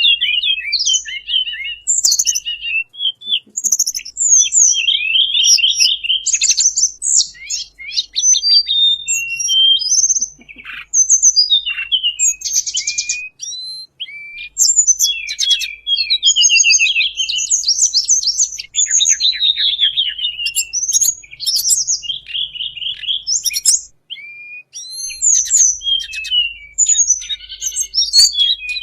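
Recorded song of the tledekan bambu bird, played as a lure call. It is a dense run of high-pitched chirps, quick down-sweeping notes and rattling trills, with only brief pauses.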